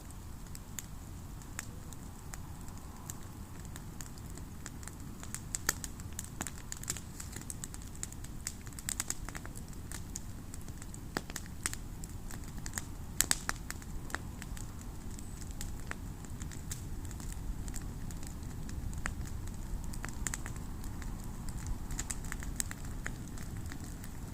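Bonfire crackling with scattered sharp pops and snaps, irregular and a few a second at most, over a low steady rumble.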